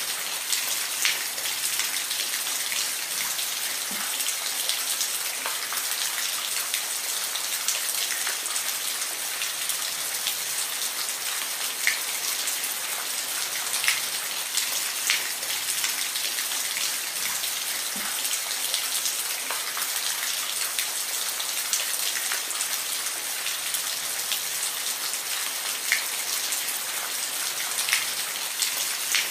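Steady rain falling, a dense even hiss with individual drops ticking sharply here and there on a hard surface.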